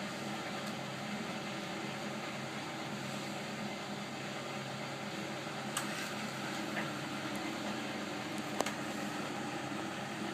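Bendix 7128 washing machine running its wash cycle: a steady mechanical hum with a couple of faint clicks, one about six seconds in and one near the end.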